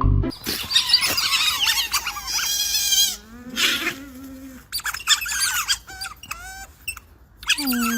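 Young animals squeaking and squealing in many short, high-pitched calls that bend in pitch, with a lower call about three seconds in and a longer curved call near the end.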